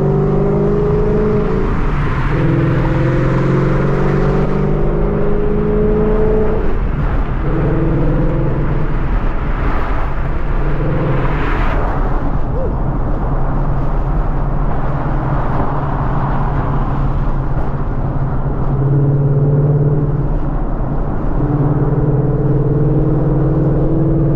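2014 Mustang GT's 5.0-litre V8 running under way, its note rising slowly with throttle and dropping away several times, over steady road noise.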